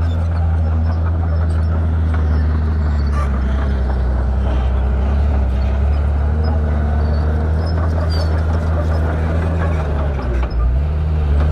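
Shantui bulldozer's diesel engine running steadily with a deep, even drone, dipping briefly near the end before returning.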